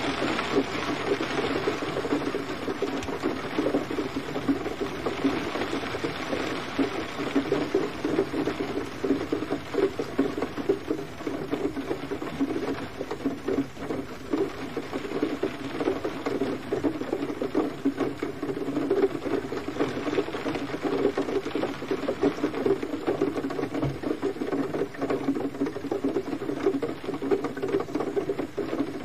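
Gentle rain falling steadily, a dense pattering of drops.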